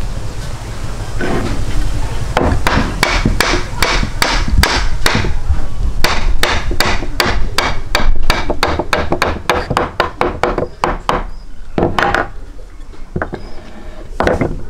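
Repeated sharp knocks, about two a second at first, quickening to three or four a second in the middle and thinning to a few scattered strikes near the end.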